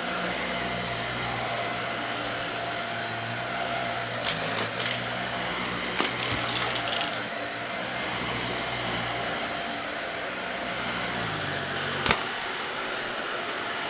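Vacuum cleaner running steadily, its motor humming. A few sharp clicks and crackles come about four to seven seconds in and again near the end as debris is sucked up.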